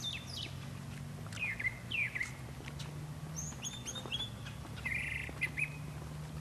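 Several birds giving short chirps and calls, a few scattered through every second or two, over a steady low hum.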